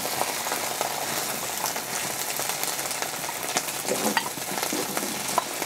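Diced chicharrón prensado sizzling as it is spooned into a frying pan with a little hot oil, with scattered clicks and pops.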